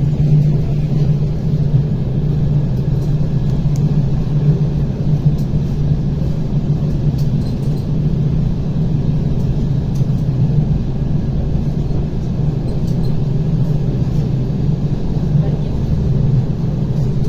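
ER9T electric multiple unit running between stations, heard from inside the carriage: a steady low rumble of the wheels on the track with a constant hum from the drive.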